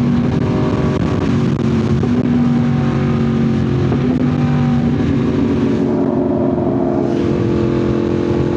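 A Yamaha R1's crossplane inline-four running through an SC Project CRT titanium exhaust while being ridden. The engine note is loud and holds a fairly steady pitch, stepping up or down several times.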